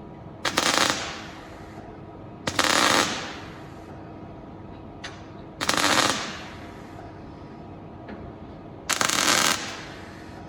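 MIG welder laying four short tack welds, each a brief crackling burst of about half a second to a second, a couple of seconds apart.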